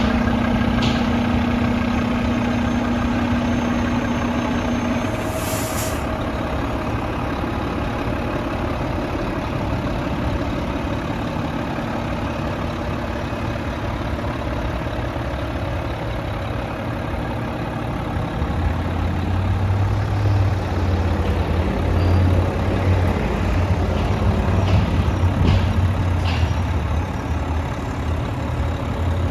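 Mack MP7 inline-six diesel engine of a garbage truck running steadily at idle, with a brief hiss of air about five seconds in. The engine grows louder, with a heavier low throb, about two-thirds of the way through.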